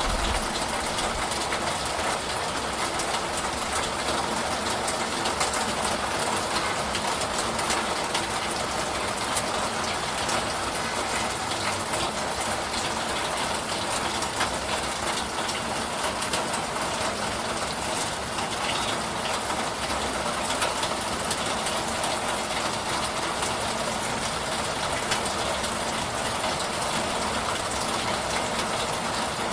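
Steady rain falling: an even hiss, dense with small drop ticks, holding a constant level throughout.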